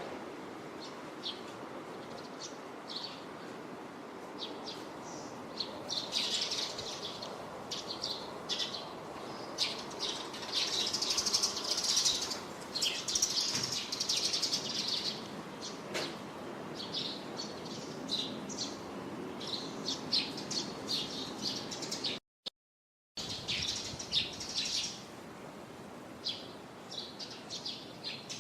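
Small birds chirping repeatedly in quick short calls, busiest about a third of the way in, over a steady low background noise. The sound cuts out completely for under a second near the end, then resumes.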